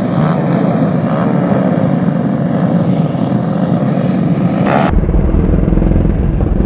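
Small-displacement race motorcycles running and revving, their pitch wavering. About five seconds in, the sound changes abruptly to a deeper engine rumble.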